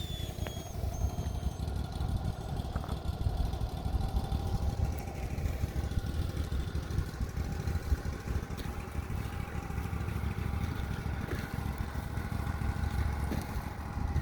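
An engine running steadily, with a low rumble and a faint steady hum.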